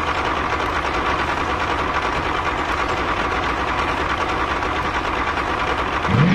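Small engine running steadily with a fast, even rattle.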